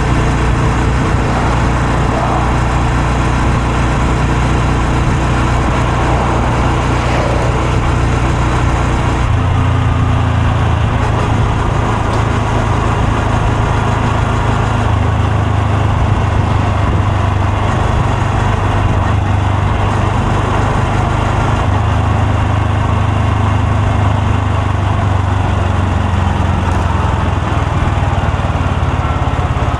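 Honda Super Cub C125's single-cylinder four-stroke engine and exhaust running steadily. Its note shifts in pitch about a third of the way in, again around the middle, and once more a little later.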